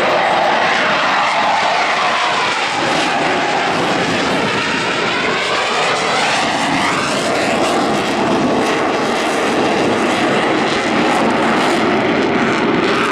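Loud, steady jet noise from Blue Angels F/A-18 Hornets flying past, with a sweeping, shifting whoosh through the middle as the jets move across.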